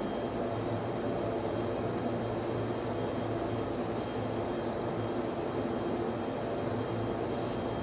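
Steady drone of server-room equipment cooling fans, with a low hum and a faint high whine running through it.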